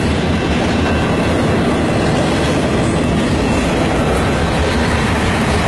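Canadian National mixed freight train rolling steadily past, a line of tank cars running on the rails, heard from inside a car close beside the track.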